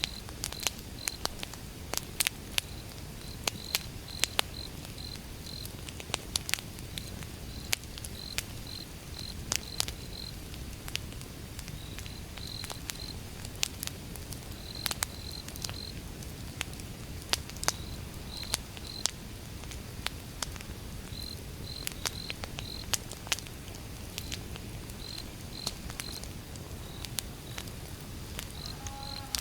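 Wood fire burning, with irregular sharp pops and crackles over a steady low rumble. A high-pitched chirping recurs in short runs of three to five throughout.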